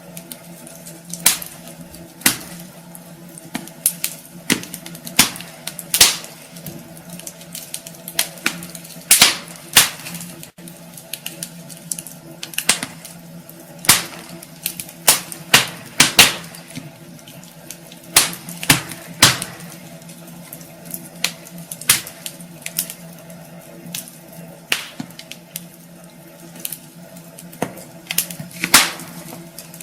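Wood fire crackling in a fireplace: irregular sharp snaps and pops, a few much louder than the rest, over a faint steady hum.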